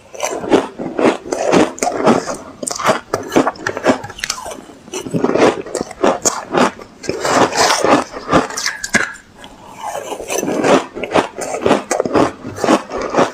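Close-miked crunching and chewing of ice: many sharp, irregular crunches, easing off briefly a few times between bites.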